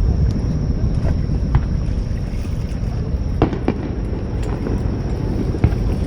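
Fireworks display: a continuous low rumble of bursts with several sharp cracks, with wind buffeting the microphone.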